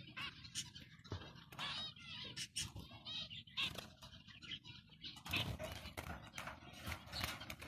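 Zebra finches calling: short, repeated nasal beeps, with a few sharp clicks among them.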